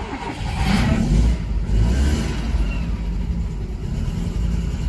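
Alfa Romeo Alfasud's flat-four boxer engine catching on start-up, revving briefly about a second in, then settling into a steady idle.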